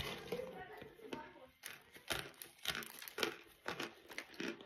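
Chewing a mouthful of cornstarch: a run of short crunching chews, about two a second, starting about a second and a half in.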